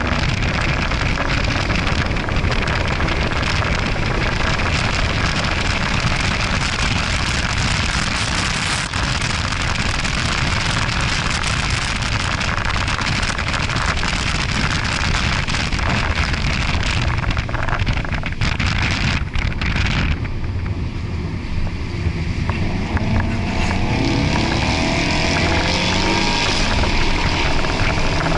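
Ford Focus RS's turbocharged 2.3-litre four-cylinder engine under way at track speed, heard from inside the cabin together with heavy wind and tyre noise. About two-thirds of the way through, the rushing noise eases and the engine note climbs steadily in pitch.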